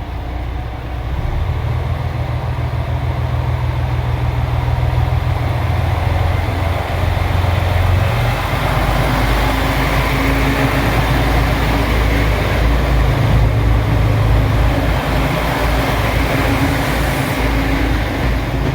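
A JR Shikoku Anpanman train running past. A loud, steady low rumble builds over the first few seconds and then holds.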